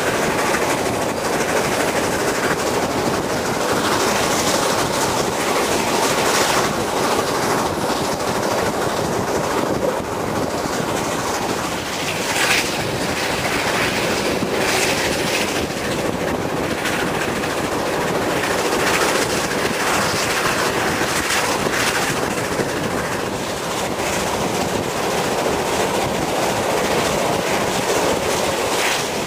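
Steam-hauled passenger train running at full speed, heard from an open carriage window: a steady rush of wheels on the rails, with a brief louder jolt a little before the middle.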